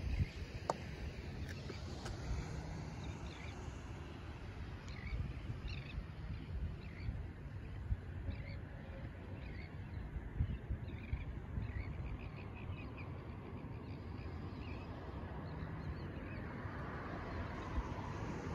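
Birds chirping: many short, high calls repeated over a steady low outdoor rumble, with a broader hiss building near the end.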